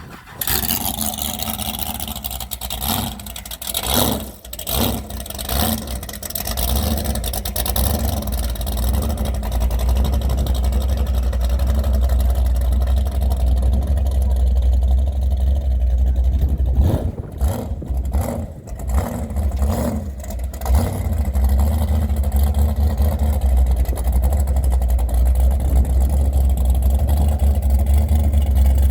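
Inboard engine of a V-drive power boat on the water, revving unevenly at first, then running steadily, with a few seconds of easing and picking back up about two thirds of the way through.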